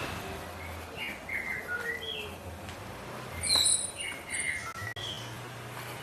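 Small birds chirping in a quick string of short calls, with a louder, shriller call about three and a half seconds in.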